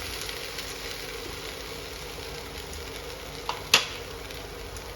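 Food sizzling and crackling steadily in oil in a nonstick frying pan, with a single sharp click a little before the end.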